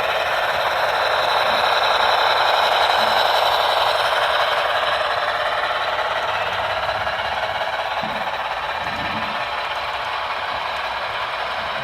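A model train running on the layout's track: a steady, fast rattling clatter of wheels and motor, loudest a few seconds in and slowly fading as it moves away.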